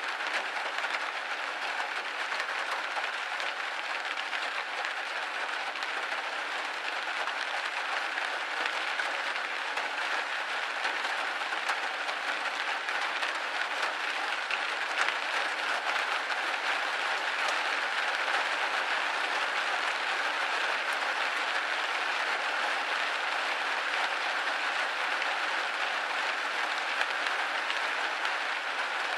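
Rain hitting a window pane: a steady dense patter of many small drop taps.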